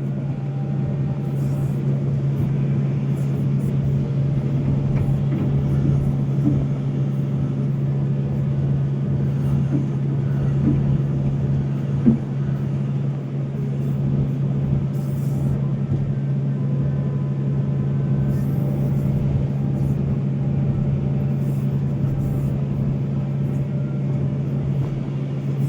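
Volvo hydraulic excavator's diesel engine running steadily with a constant deep drone, with one sharp knock about halfway through.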